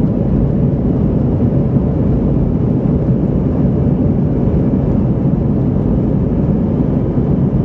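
Airbus A319 cabin noise in the climb: the jet engines and rushing air make a steady low rumble with no changes.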